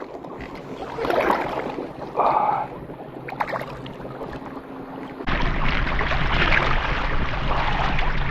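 Short scuffs and noisy swells of movement in a kayak on the water. About five seconds in, an abrupt cut brings a steady rushing noise.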